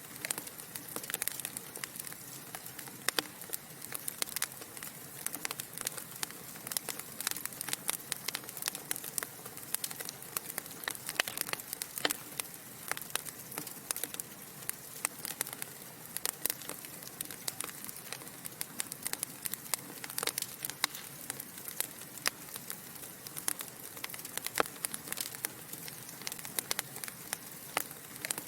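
Wood fire crackling: burning logs giving off dense, irregular sharp pops and snaps over a steady soft hiss.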